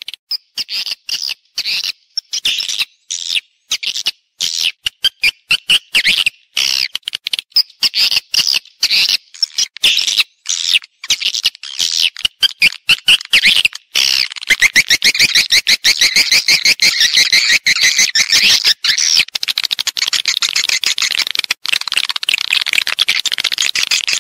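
Swiftlet lure calls: fast, twittering chirps repeated in quick runs, the kind of call and roosting sounds played to draw swiftlets into a nesting house. The chirping comes in broken runs at first and becomes dense and nearly continuous about halfway through.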